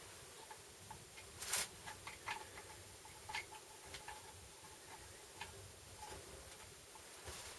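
Faint, irregular light clicks and taps, as of small metal parts being handled, with one louder clack about a second and a half in.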